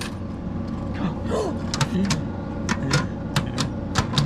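Coin-operated soda pop machine's mechanism clicking and clattering at uneven intervals over a steady electrical hum, while it takes coins without paying out.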